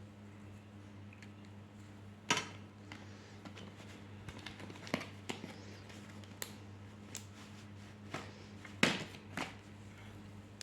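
Scattered light taps and rustles, a few sharp ones about two, five and nine seconds in, over a steady low hum.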